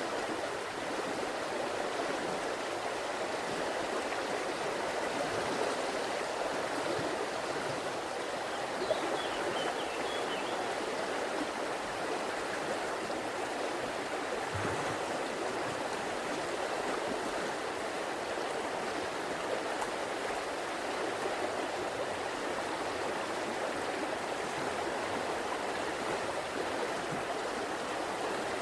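River water flowing and rushing over stones: a steady, even burble of running water that holds at the same level throughout.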